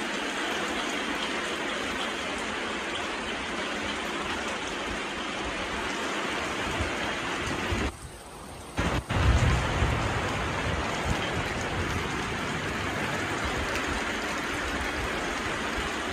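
Heavy rain falling on roofs and trees, a steady hiss throughout. About eight seconds in the sound briefly drops away, then a loud low rumble comes in for a second or two before the rain hiss carries on.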